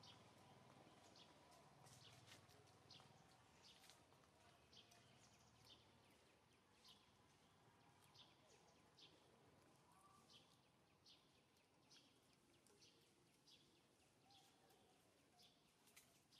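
Faint, repeated short high chirps of a small bird, about one or two a second, over a quiet background hiss.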